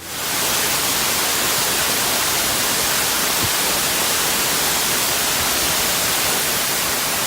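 Waterfall close to the microphone: a loud, steady rush of falling water that starts at once at a cut and holds level.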